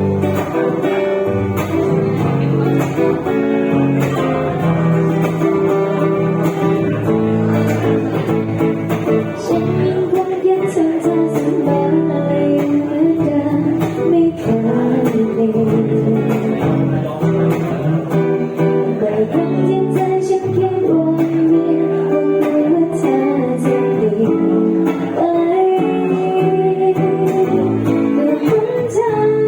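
Music: an acoustic guitar strummed and plucked, with singing.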